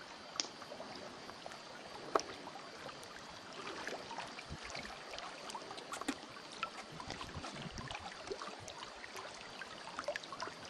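Faint lake water lapping and trickling, with scattered small clicks and knocks; the sharpest come near the start and about two seconds in.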